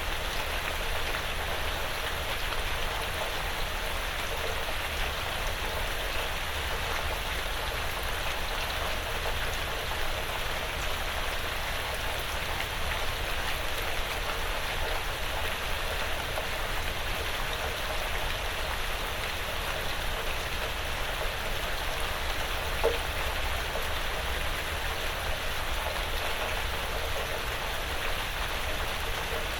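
Quiet, steady rain falling on a porch roof and the surrounding woods. About three-quarters of the way through, one drop lands louder than the rest.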